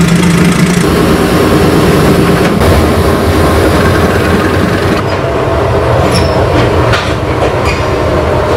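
Diesel locomotive and coach rolling slowly along a siding: a steady loud rumble of engine and wheels on the rails. In the second half come a few sharp clicks as the wheels cross rail joints and a thin wheel squeal.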